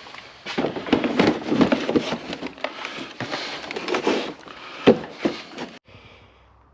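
A chainsaw being handled and fitted into its carrying case: irregular rubbing, scraping and clattering with many sharp clicks, one sharp knock about five seconds in, then it stops just before six seconds.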